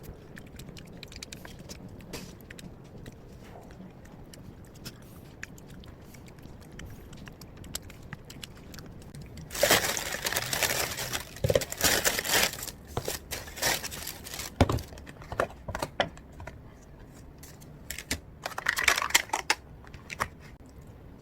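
Crinkling and rustling in several loud bursts, over faint scattered light clicks.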